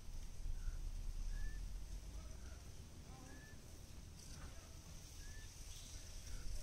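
Birds calling: a short high chirp about every two seconds with softer, lower notes in between, over a low rumble of wind on the microphone.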